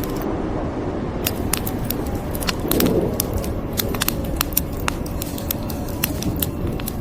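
Wood fire crackling, with frequent sharp irregular pops over a steady low rumble.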